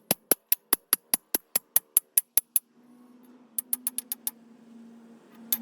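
A run of evenly spaced, sharp metallic clicks, about five a second, stopping about two and a half seconds in. A low steady hum follows, with a few more clicks partway through.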